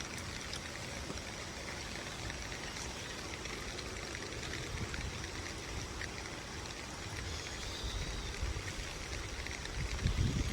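Steady rush of falling water, with the wind buffeting the microphone in low thumps near the end.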